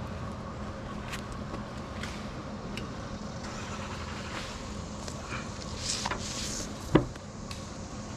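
An engine running steadily in the background, with scattered light clicks and one sharp knock about seven seconds in.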